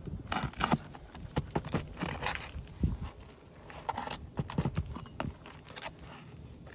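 Irregular clicks, knocks and scrapes of a metal roof snake working under asphalt 3-tab shingles, prying them up to get at the nails.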